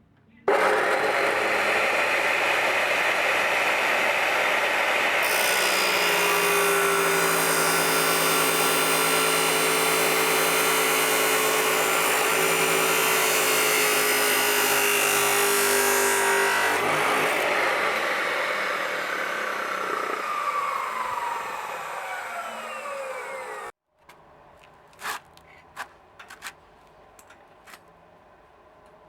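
Handheld electric power tool running hard and steady, then released and spinning down with a slowly falling whine. A few faint clicks follow near the end.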